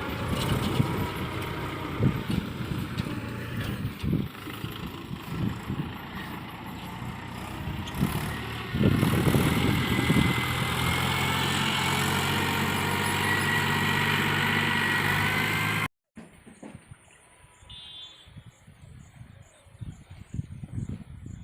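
Tractor engine running, with irregular knocks and clatter over it for the first several seconds, then settling into a steady running note. It cuts off abruptly to a much quieter background of rhythmic insect chirping.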